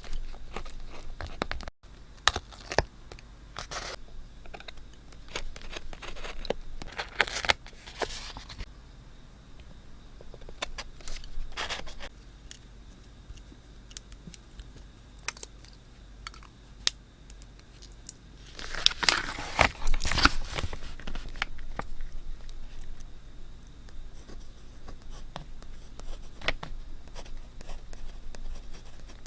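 Paper being handled close to the microphone for scrapbooking: a run of rustles, taps and scrapes, with a longer, louder stretch of paper noise about two-thirds of the way through.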